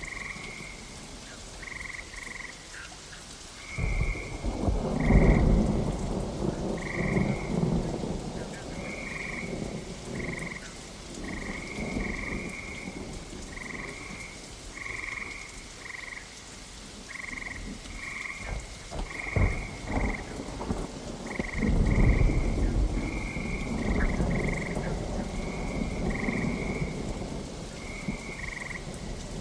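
Steady rain with thunder rolling twice, about four seconds in and again around twenty-two seconds, with a few sharp cracks between. Short calls, as of a frog, repeat throughout about once or twice a second.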